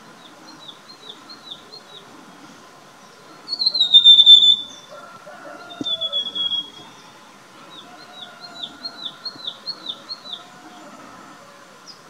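Rufous sibia song: runs of short, quickly repeated high notes on nearly one pitch, about four a second. A louder, drawn-out note slides down in pitch about four seconds in, and a shorter one follows near the middle.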